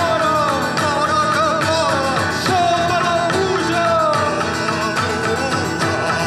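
Live music: a voice singing a wavering, ornamented melody over guitar accompaniment.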